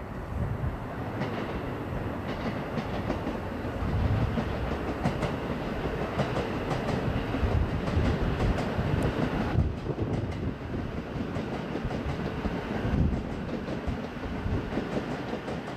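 JR East E233-series electric commuter train running past, a steady rumble with rapid clicks of the wheels over the rail joints.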